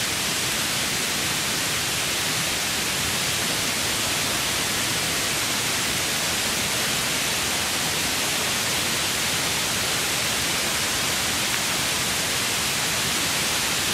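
Waterfall cascade rushing: a steady, even hiss of falling water with no breaks.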